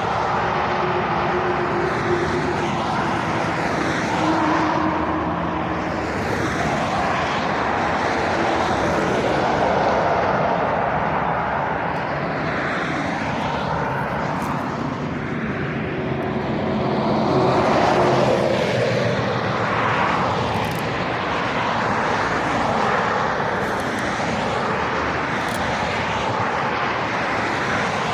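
Road traffic going by on a main road: the tyre and engine noise of lorries and cars passing one after another, swelling loudest about ten and eighteen seconds in.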